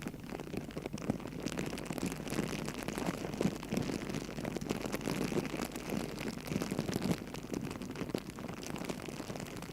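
Campfire burning with a steady, dense crackle of many small irregular pops.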